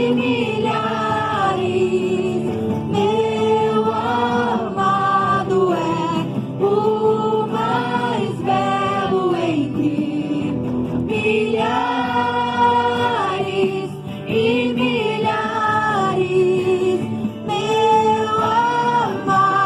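Group of voices singing a Portuguese-language Christian worship song, with long held notes in a slow melody.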